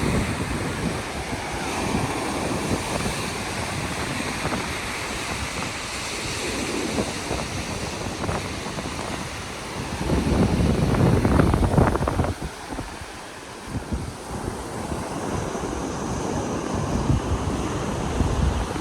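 Wind buffeting the microphone over the steady wash of ocean surf, with a strong gust about ten seconds in.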